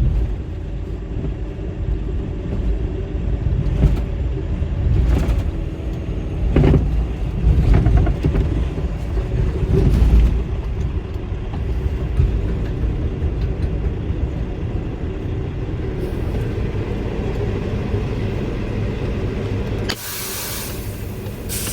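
Semi truck's diesel engine and road rumble from inside the cab as it rolls slowly, with a few jolts over bumps in the first half. Near the end comes a loud burst of air brake hiss.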